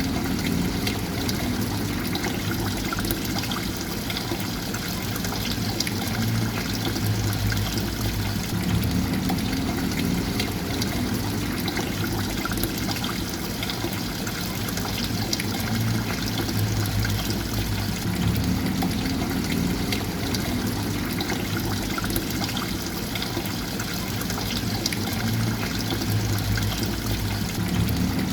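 Water steadily trickling and pouring, with a low hum underneath that fades and returns about every nine to ten seconds.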